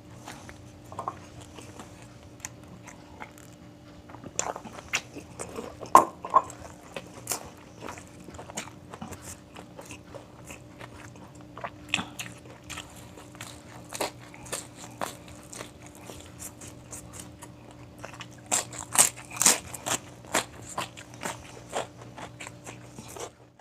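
Close-miked eating: crunchy bites and chewing with many small crackles and clicks, a cluster of louder crunches about three quarters of the way through, over a steady low hum.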